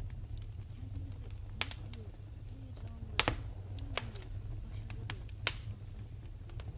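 Wood fire in a fireplace crackling: scattered sharp pops and snaps, a few of them loud, over a steady low rumble.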